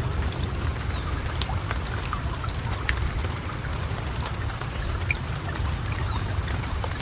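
Steady rain with scattered individual drops ticking, over a low rumble of thunder that eases off in the first second or so and lingers faintly underneath.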